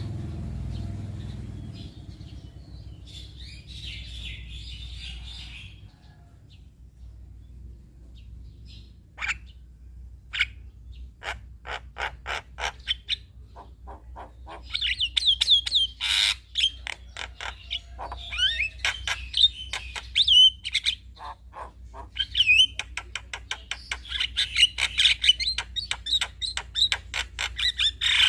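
Male Javan myna (jalak kebo) chattering song: sparse sharp clicks at first, building about halfway into a dense, loud run of clicks, squawks and quick whistled notes. A steady low hum runs underneath.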